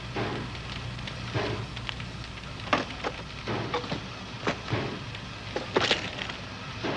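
Soldiers' rifles dropping and clattering onto the ground, an irregular scatter of knocks and clicks with a few louder ones, over a steady low hum.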